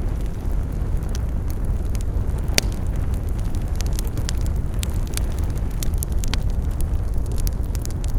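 Campfire burning with a steady low rumble and frequent crackles and pops of burning wood, one sharper pop about two and a half seconds in.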